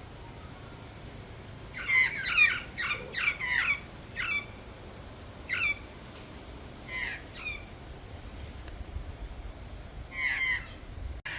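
A bird calling with short, sharply falling notes: a quick run of five or six about two seconds in, then single calls and pairs spaced out, and another call near the end.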